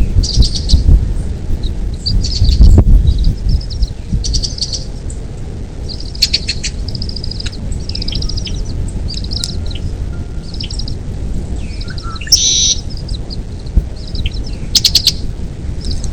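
Birds chirping and calling in many short phrases, with quick trills and rapid repeated notes, over a steady low rumble.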